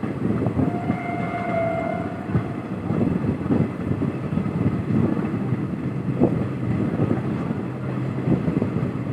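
Passenger train coach in motion: steady rumble of the running train with irregular rattling and clatter, and wind on the microphone. About a second in, a brief steady tone sounds for roughly a second.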